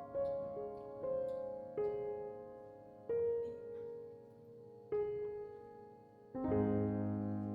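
Slow, gentle solo piano background music: single notes struck one at a time and left to ring, with a fuller chord near the end.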